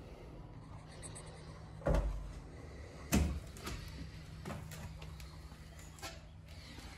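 Two loud thumps a little over a second apart, followed by a few lighter knocks, over a faint steady hum.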